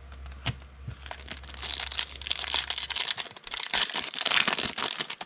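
A foil trading-card pack being torn open and its wrapper crinkled, with a single click about half a second in and then continuous crinkling and rustling.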